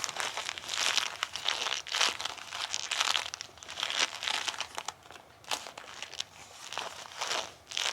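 Bilpearl rubber gloves being rubbed and pressed together, the rubber sticking and pulling apart in irregular crinkly squeaks with many small sharp snaps. It eases off for a couple of seconds past the middle, then picks up again.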